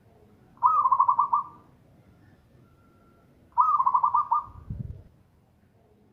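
Zebra dove (perkutut) singing: two phrases of rapid staccato coos about three seconds apart. A brief low thump comes just after the second phrase.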